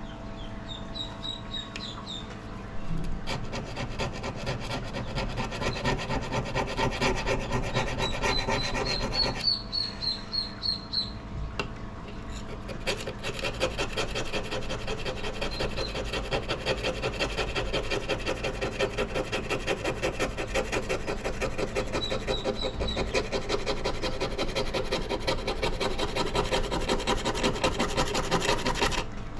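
Rusted axe head being scrubbed by hand in quick back-and-forth strokes, an abrasive rubbing on metal that gets louder about three seconds in. Birds chirp briefly a few times.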